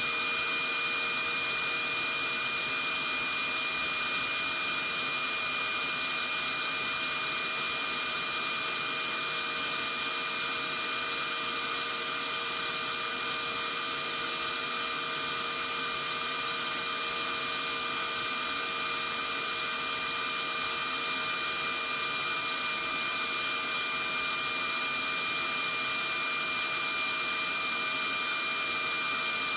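Vacuum cleaner running steadily: an even rushing noise with a constant high-pitched motor whine, unchanging throughout.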